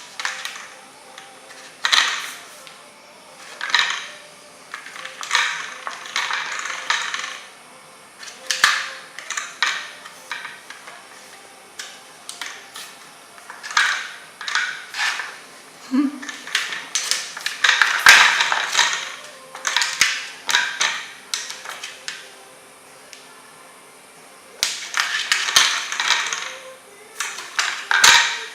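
Plastic cat toy with a spinning mouse inside, rattling and clattering in repeated bursts as a kitten bats at it.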